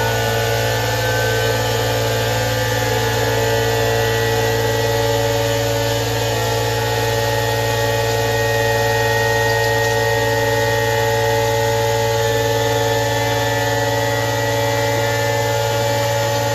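A steady machine hum with several fixed tones, unchanging throughout.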